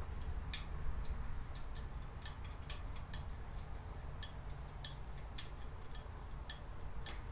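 Irregular small clicks and taps of storage-cart parts being handled and fitted together during assembly, the sharpest about five seconds in, over a low steady hum.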